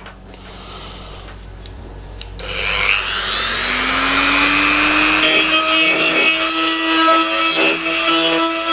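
Dremel rotary tool spinning up with a rising whine about two and a half seconds in, then running at a steady pitch. From about five seconds in it grinds the inside surface of a thin metal EGR cooler, cleaning it down to bare metal for brazing.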